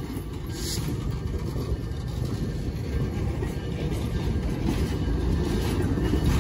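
Passenger train cars rolling past close by, a steady low rumble of steel wheels on the rails that grows louder toward the end.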